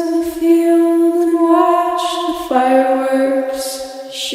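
A woman's voice singing unaccompanied, holding long sustained notes. It moves to a lower note about two and a half seconds in.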